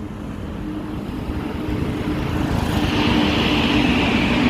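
Freight train with diesel locomotive approaching, its engine drone and rumble growing steadily louder, with a hiss coming in about three seconds in.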